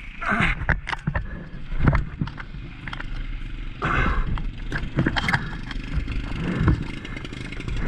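Off-road trike engine lugging at low revs on a muddy hill climb, with scattered clunks and scrapes as it loses traction and starts rolling backwards.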